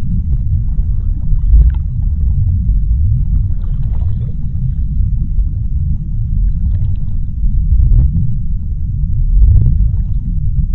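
Underwater sea ambience: a steady low rumble with faint scattered crackles and ticks.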